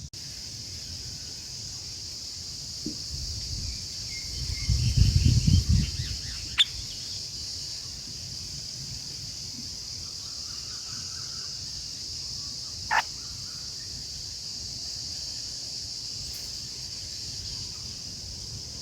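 Outdoor ambience with a steady high-pitched hiss and faint bird calls, a low rumble about five seconds in, and two sharp clicks, one near seven seconds and one near thirteen.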